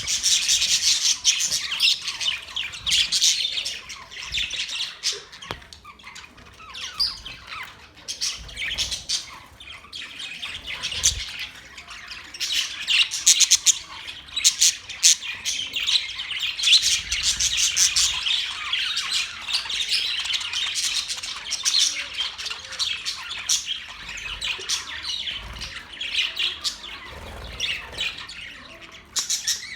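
A group of budgerigars chattering continuously in a dense run of quick, high chirps, warbles and squawks, a little quieter for a few seconds early on before picking up again.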